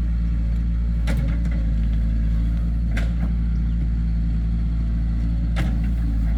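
Heavy diesel engine of an excavator or dump truck running steadily, with three short sharp knocks over it.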